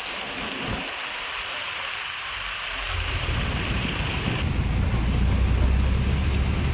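Steady hiss of heavy rain. About three seconds in, a deep low rumble builds up underneath and continues.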